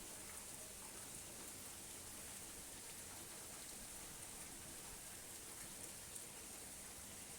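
Steady, soft rain falling, a fine even hiss with a few scattered drop ticks.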